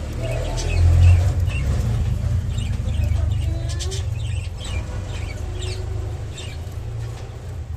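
Budgerigars chirping and chattering in short, quick calls over a loud, steady low rumble.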